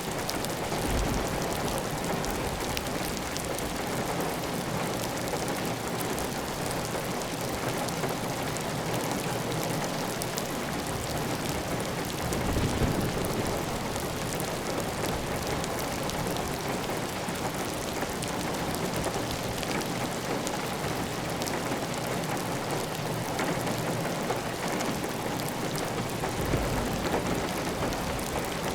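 Heavy rain falling on a clay-tile roof, with water running off the roof edge: a steady, even hiss speckled with drop impacts. There are a few brief low swells, one about twelve seconds in and another near the end.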